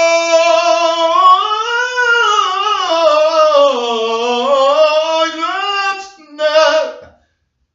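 A single unaccompanied voice sings one long drawn-out note that glides up about two seconds in and sinks again toward four seconds. A short final note follows, and the voice stops about seven seconds in.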